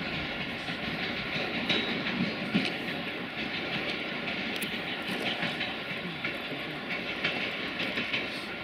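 A train moving on the station tracks: a steady rolling rumble and hiss with scattered short clicks and knocks.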